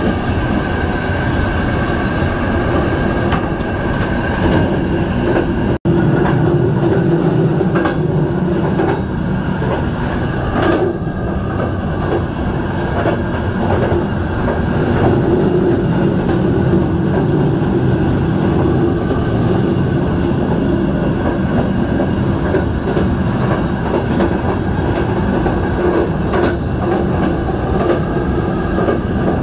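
CFR Călători passenger train running along the track: a steady rumble with a humming undertone and scattered clicks of the wheels passing over the rails. There is a split-second break in the sound about six seconds in.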